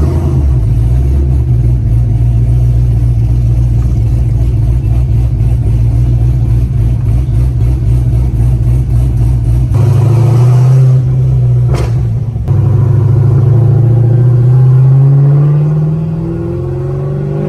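A vehicle engine running steadily with a low, deep note. About ten seconds in the sound changes, there is a sharp click, and then the engine note climbs as it revs and accelerates.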